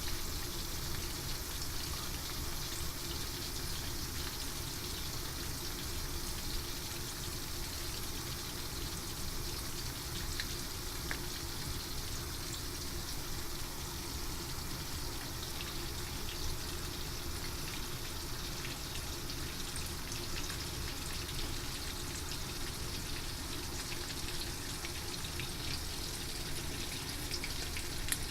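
Horse mackerel frying in hot oil: a steady sizzle with scattered small crackles.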